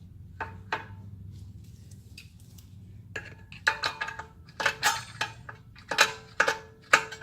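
Sharp metallic clicks and clinks, a dozen or so in the second half, each with a short ring: a tool working the star-wheel adjuster of the parking-brake shoes inside the rear brake rotor, tightening the shoes against the drum.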